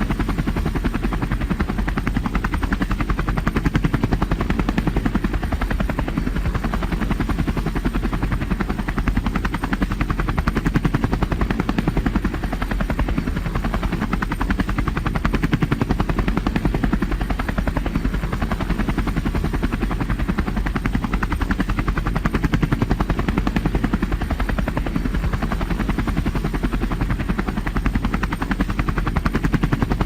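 Helicopter in flight: the rotor's rapid, even chop over the engine's steady noise, loud and unbroken.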